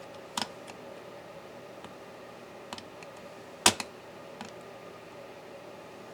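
Small hard clicks and taps of tools and laptop parts being handled during disassembly: a sharp click about half a second in, a louder one a little past halfway, and a few fainter ticks, over a steady low hum.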